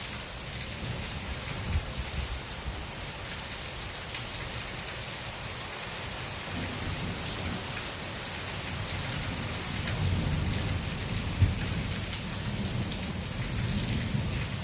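Heavy rain hissing steadily in a thunderstorm, with a low rumble of thunder building through the second half. A single sharp tap sounds about eleven seconds in.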